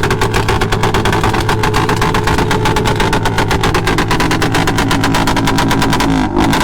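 Motorcycle engine running close by with a rapid, even pulse, dipping briefly about six seconds in.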